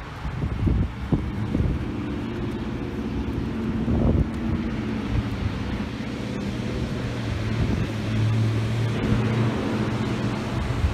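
Wind gusting on the microphone in a snowstorm, with a steady low hum underneath.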